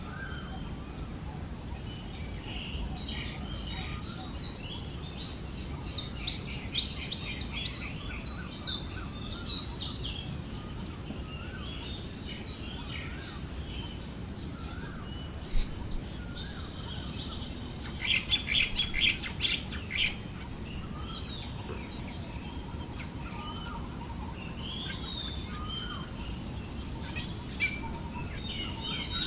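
Forest birds chirping and calling in a mixed chorus over a steady high insect drone and a soft low breeze. Roughly two-thirds through, a bird gives a quick burst of rapid chirps.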